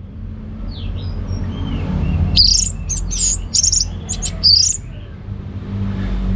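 Orange-headed thrush singing: about two seconds in, a phrase of rapid, high whistled notes and quick up-and-down slurs that lasts about two seconds. A few faint notes come before it, and a steady low hum runs underneath.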